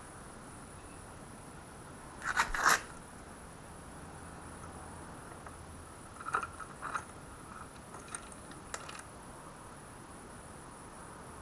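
Hard tools and small engine parts being handled and set down: a sharp clatter of clicks a couple of seconds in, then a few lighter clicks later. A steady high-pitched insect chirr runs underneath.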